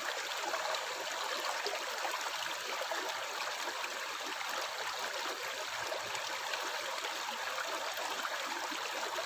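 Stream water flowing and gurgling, a steady, even rush without pauses.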